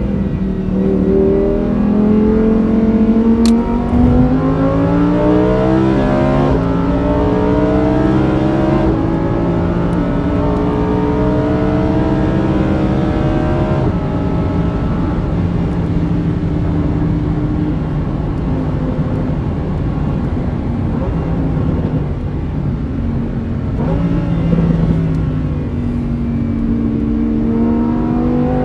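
Lamborghini Huracán Performante's V10 heard from inside the cabin, accelerating hard through the gears: the engine note climbs and drops back at each upshift several times in the first half. It then settles to a steadier pull before climbing again after another shift near the end.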